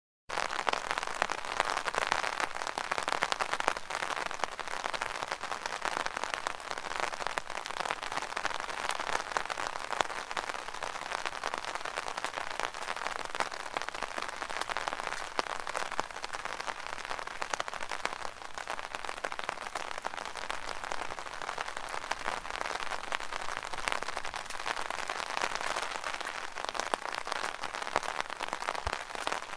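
Steady, dense patter of rain drops striking the fabric of an umbrella overhead, countless small ticks merging into an even hiss, after a split-second dropout right at the start.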